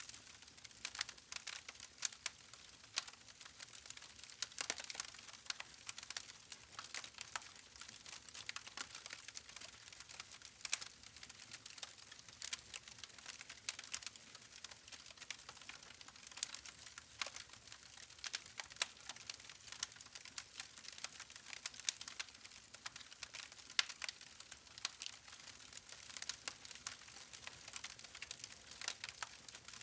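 Wood fire crackling: a steady soft hiss with frequent irregular sharp pops and snaps from the burning logs.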